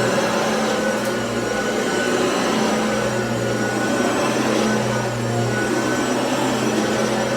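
Hoover ONEPWR cordless vacuum running steadily with an even motor hum and airflow hiss, being run over carpet.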